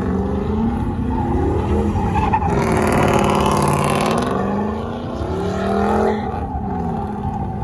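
A truck engine revving up and down several times, with a burst of hissing tire noise, like a tire squeal, from about two and a half seconds in to just past four seconds.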